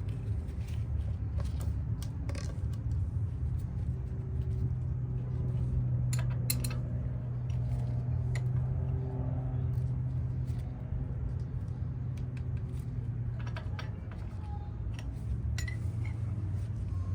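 A steady low hum with scattered light metallic clinks and taps, like tools and fittings being handled.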